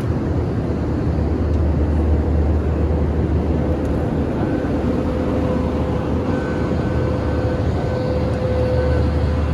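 Steady in-flight cabin noise of an Airbus A321-200 airliner: a low, even rumble of engines and airflow. A faint steady hum joins it about four seconds in.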